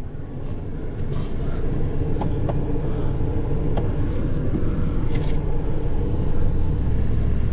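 A truck's engine running steadily, heard from inside the cab as a low drone, with a few light clicks. It gets slightly louder about two thirds of the way in.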